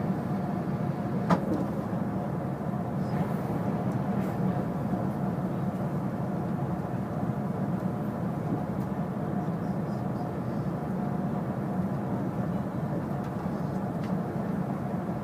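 Renfe AVE high-speed train running at speed: a steady, unbroken rumble, with one sharp click about a second in.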